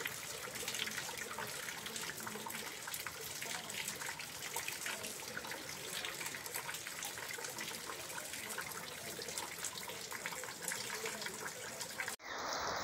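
Heavy rain falling on a corrugated fibre-cement roof: an even hiss of countless drops pattering on the sheets, with water pouring from a pipe. It cuts off abruptly near the end.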